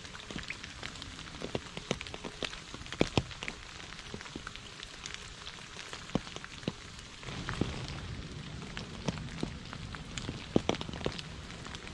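Rain falling on a puddle and wet leaves: a steady hiss with many separate drops plinking at irregular intervals. A low rumble comes in about seven seconds in.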